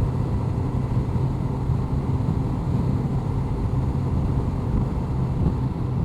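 Honda CBR1100XX Blackbird's inline-four engine running steadily at cruise, mixed with wind noise.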